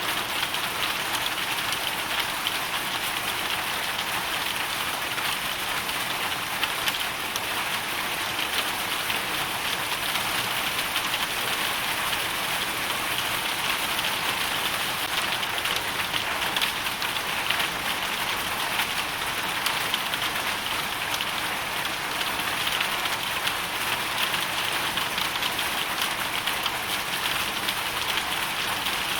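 Hail storm: a steady, dense patter of falling hail that does not let up.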